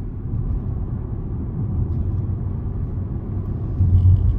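Steady low road and engine rumble heard from inside a moving car's cabin, swelling briefly louder near the end.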